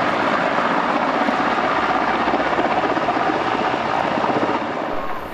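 Helicopter flying: steady rotor chop and turbine noise, easing off slightly near the end.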